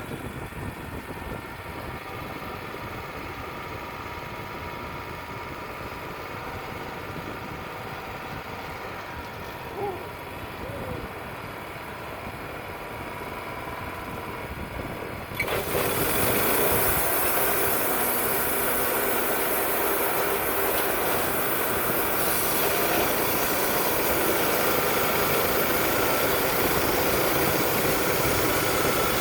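Wood-Mizer LT35 portable band sawmill running, with wind buffeting the microphone. About halfway through, the sound jumps suddenly to a louder, even rush as the band blade starts cutting through a poplar log, and it holds steady from there.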